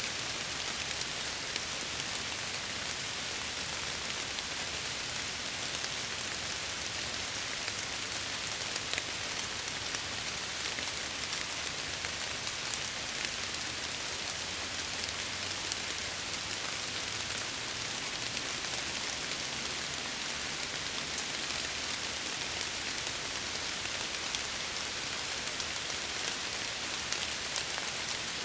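Steady rain falling against window glass, an even hiss with scattered light drop ticks.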